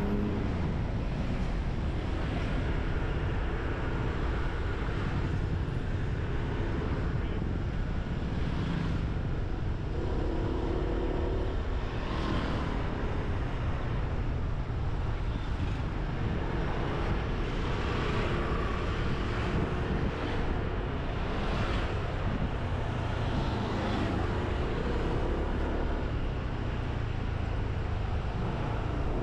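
Motorbike engine running while riding, its note rising and falling in pitch, under heavy wind rumble on the helmet- or bike-mounted microphone.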